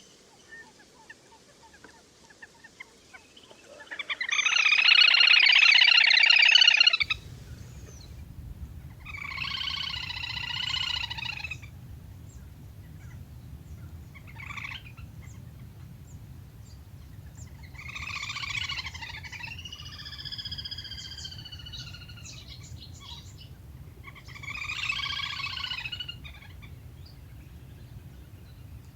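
Le le hôi whistling duck calling the flock: separate bouts of many-toned whistled calls a few seconds apart, the loudest about four seconds in. A steady low hum runs under the calls from about seven seconds on.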